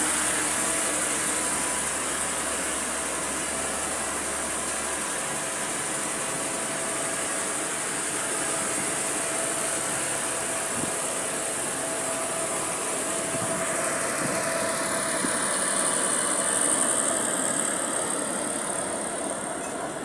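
Passenger train running: a steady rolling rush with a strong high hiss and a faint steady hum, swelling about three-quarters through and easing slightly near the end.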